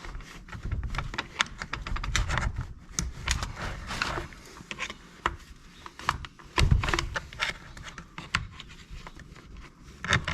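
Hand-tool and parts handling on a chainsaw being worked on: irregular clicks, taps and scrapes, with a louder knock about two-thirds of the way through.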